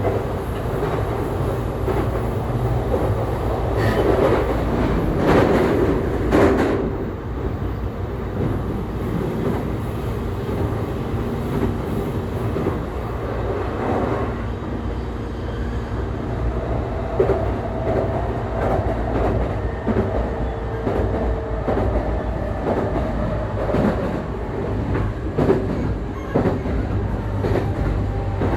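JR East E531 series electric train heard from on board while running at speed: a steady rumble of motors and wheels on rail, with a steady hum partway through. The wheels clatter over rail joints several times.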